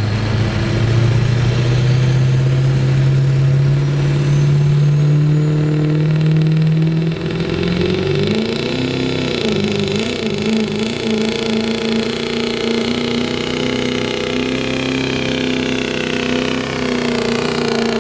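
Turbocharged diesel pickup truck at full throttle during a sled pull, its engine note climbing steadily for about seven seconds, then dipping and wavering before settling into a steady high-revving run with turbo whine.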